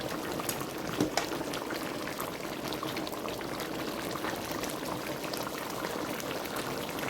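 Pot of curry chicken simmering, a steady bubbling with many small pops, and one louder tap about a second in.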